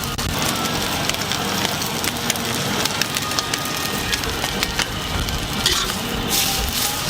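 Rice noodles and chicken sizzling in a hot wok, with frequent sharp clicks and scrapes of a metal spatula tossing them.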